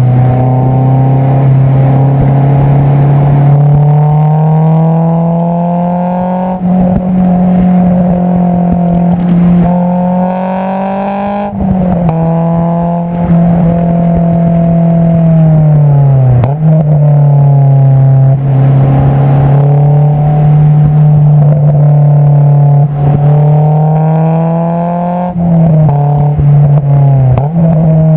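Honda S2000's 2.2-litre inline-four heard through an Invidia Q300 exhaust, running loud under way. The engine note climbs slowly, then drops sharply at gear changes about four times, with a dip and recovery around the middle.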